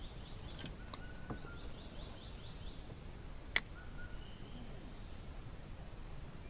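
Outdoor wildlife ambience: a steady high insect drone, with a rapid series of short chirps, about five a second, over the first three seconds. A few brief whistled bird-like notes and one sharp click about three and a half seconds in.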